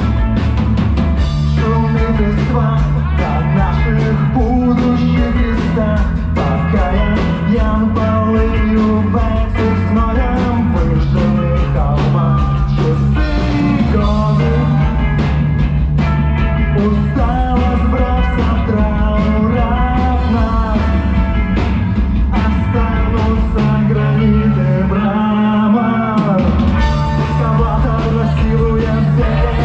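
Live rock band playing a song: a steady drum beat, a bass line changing notes every second or two, and melodic lines above, with a singing voice.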